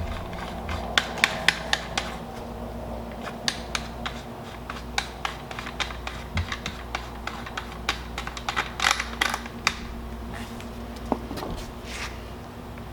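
Magazine cap of a Girsan MC312 Gobbler shotgun being screwed back onto the magazine tube: irregular small metallic clicks and scraping of metal parts being handled.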